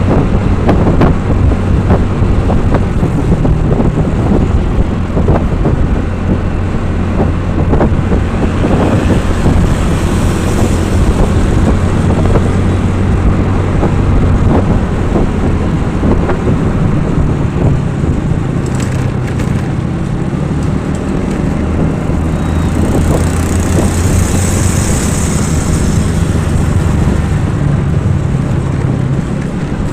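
A vehicle engine running steadily while under way, with a dense crackle of small clicks and rattles over its low hum.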